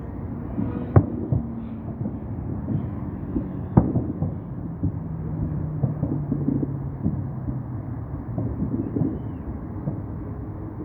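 Distant fireworks salute going off: a run of muffled bangs over a low rumble, two of them sharper, about three seconds apart.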